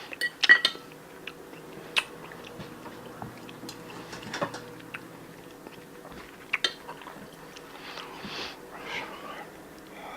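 A meal being eaten: scattered sharp clinks of cutlery against dishes, the loudest cluster near the start, with soft chewing sounds between.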